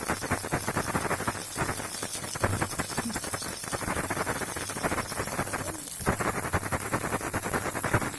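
Baby rattle shaken continuously: a dense, fast stream of small rattling clicks, with brief breaks about a second and a half in and again near six seconds, over a steady hiss.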